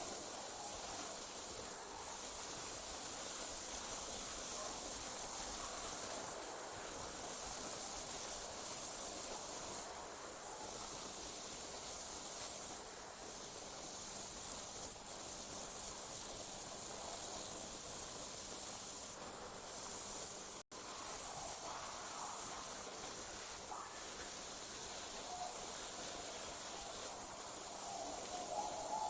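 A chorus of night insects, trilling high and continuous, with short breaks every few seconds.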